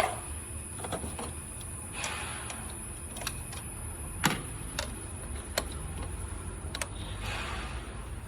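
Volkswagen Polo GT engine idling with a steady low rumble, while a series of sharp clicks and knocks of handling sound over it, the loudest about four seconds in.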